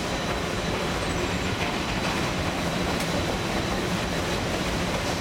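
Narrow gauge steam train running, heard from an open-air passenger car: a steady rumble of the wheels on the rails.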